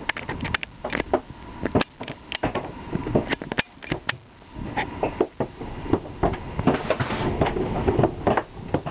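Golf-ball-size hailstones pelting an RV: a dense, irregular clatter of hard knocks, several a second, loud enough to dent the body and hole a vent cover.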